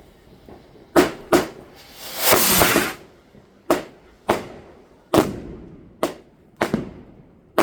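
Fireworks going off: a series of about eight sharp bangs at irregular intervals, each trailing off in an echo, with a hissing rush lasting about a second near the start.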